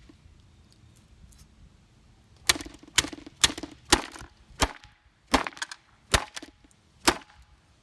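About eight hard, sharp blows striking an RC Ferrari car's body, starting about two and a half seconds in. The first come about half a second apart, then they space out to nearly a second.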